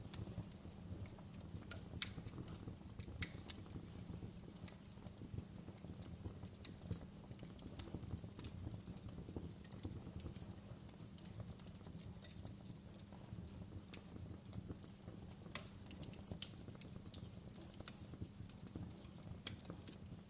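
Wood fire crackling in a fireplace: a faint, steady low rumble of burning with irregular sharp pops and snaps, the loudest about two and three and a half seconds in.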